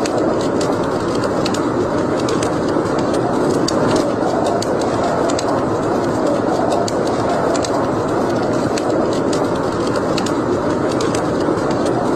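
Wood fire burning in a fireplace: a steady rush of flames with frequent, irregular sharp crackles and pops.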